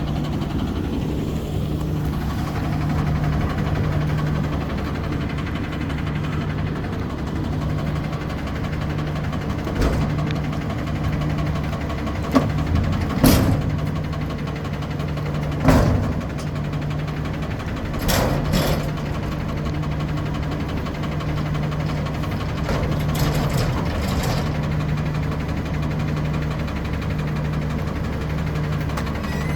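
Garbage truck engine idling steadily, with a handful of sharp metallic bangs and knocks scattered through the middle stretch.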